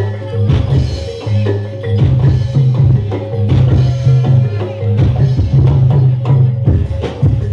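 Live Javanese reog / jaran dor ensemble music: drums struck in a quick, busy pattern over low, sustained ringing tones from gongs and metal chimes.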